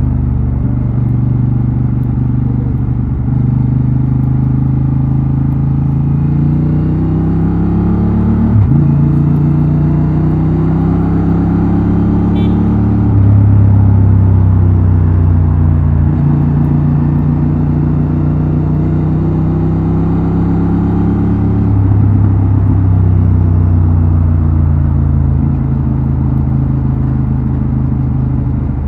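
Honda Transalp XL750's parallel-twin engine and exhaust under way. The engine pitch rises and falls with road speed, with a few sudden jumps and drops in pitch from gear changes.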